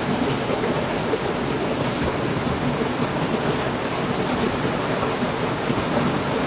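Heavy rain falling in a steady downpour, an even hiss that doesn't let up.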